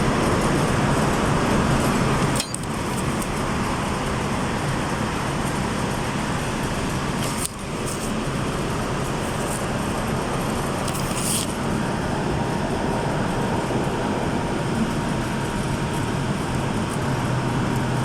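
Steady rushing background noise with no clear single source. It dips briefly about two and a half and seven and a half seconds in, and a few short high-pitched clicks sound over it.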